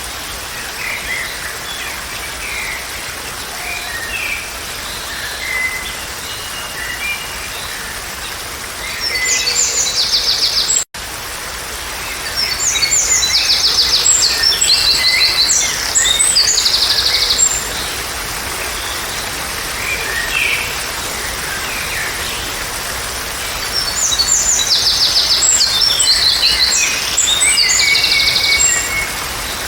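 Woodland birds chirping and singing over a steady background hiss. Several loud, fast trilled songs come in bursts of a few seconds, and there is a momentary dropout about a third of the way in.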